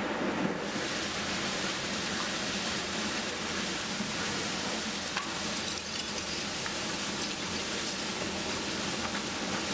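Heavy rain pouring down in a storm, a steady hiss with a few faint ticks of drops.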